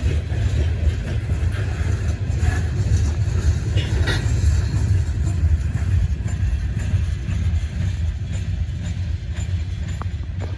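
Train rolling past with a steady low rumble, a few faint higher screeches about two and four seconds in.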